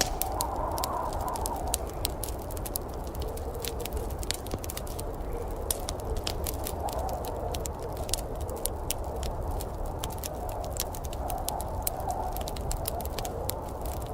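Wood fire crackling, with many small sharp pops scattered throughout, over a steady low rumble and a wavering mid-pitched whoosh.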